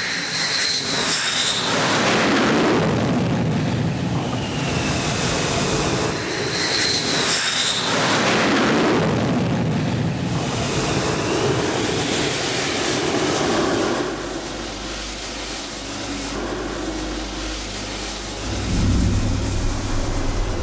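MiG-29K fighter's twin jet engines, a loud jet roar with a high whine. It swells twice, drops to a lower rumble about two-thirds of the way through, then surges again near the end.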